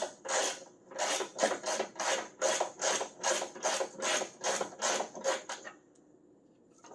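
A hand tool working at a truck fender's mounting bolts: rapid, even rasping strokes, nearly three a second, which stop a little under six seconds in.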